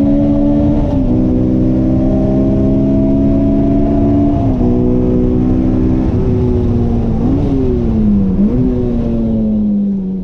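Honda K24 2.4-litre inline-four in an EG Civic, heard from inside the cabin, pulling hard at full throttle down a straight. Its pitch steps down at two upshifts, then falls under braking with two short throttle-blip rises on the downshifts.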